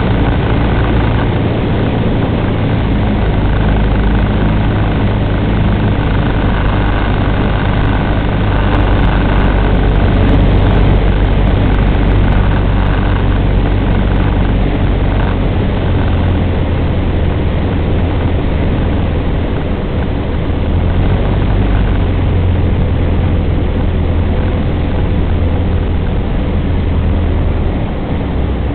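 Cessna 150's four-cylinder Continental O-200 engine and propeller running steadily: a loud low drone with a rush of air, dipping slightly near the end.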